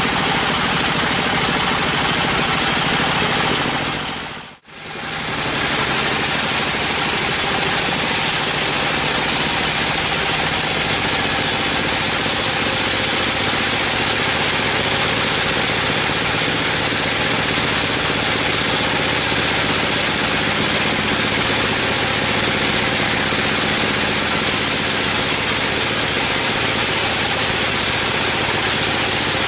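Sawmill machinery running with a steady engine drone. About four and a half seconds in, the sound fades out for a moment and comes straight back.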